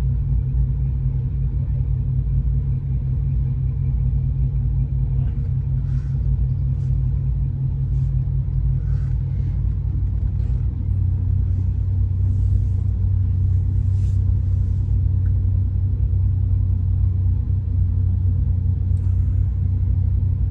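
Low, steady rumble of a car engine idling in a slow-moving queue, heard from inside the car; it gets a little louder about halfway through.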